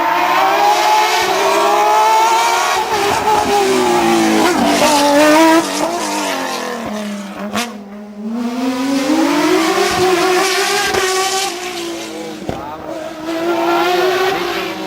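Hillclimb race car engine at full throttle, its pitch climbing and dropping through repeated gear changes. About eight seconds in it brakes down to low revs, then accelerates hard again.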